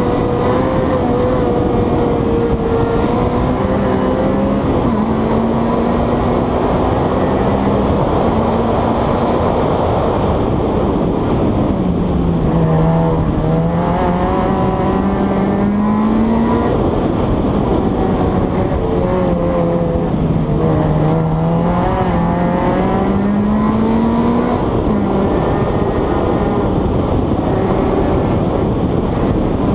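Honda Civic hillclimb car's VTEC engine heard from onboard, driven hard up through the gears. Its note falls twice as the car slows for the bends and climbs again under acceleration, over steady wind and road noise.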